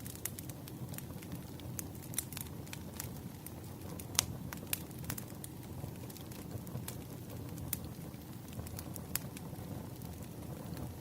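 Wood fire in a fireplace crackling, with irregular sharp pops over a steady low rumble of the flames; one pop about four seconds in stands out as the loudest.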